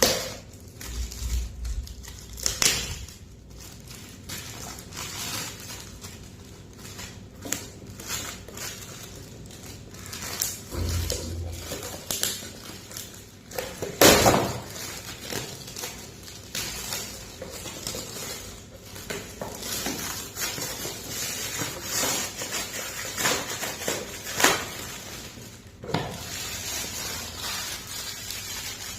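Toys and their packaging being handled: an irregular run of plastic clicks, knocks and crinkling, with the loudest knock about halfway through.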